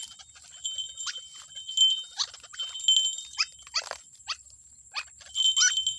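White-breasted waterhen (ruak-ruak) calling: a string of short, sharply falling calls spaced irregularly, over a steady high-pitched ringing.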